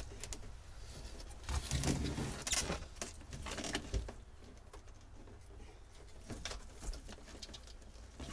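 Old boat wiring being handled and pulled: rustling and clicking of wires and plastic, busiest in the first half, then a few lighter clicks.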